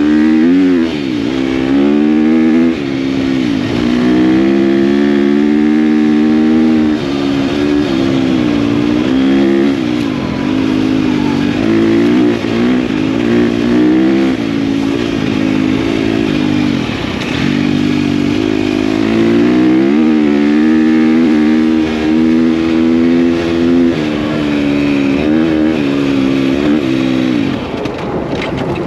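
KTM dirt bike engine running under load while riding, its pitch rising and falling with throttle, with short dips every few seconds as the throttle is rolled off and on through gear changes.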